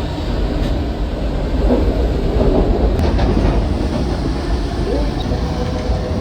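Elevated train running along its track overhead, a loud, steady low noise.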